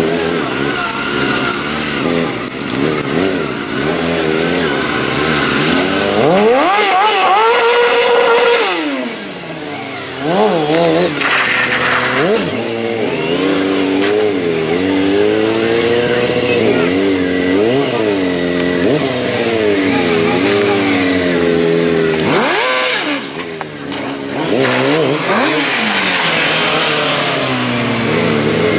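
Motorcycle engines revving again and again, the pitch climbing and falling with each blip of the throttle. About a third of the way in, one long rev climbs high and then cuts off sharply.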